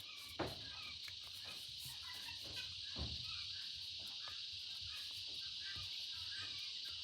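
Light taps and scratches of paper being handled and worked at a craft table, the sharpest about half a second in and again about three seconds in, over a steady high-pitched hiss.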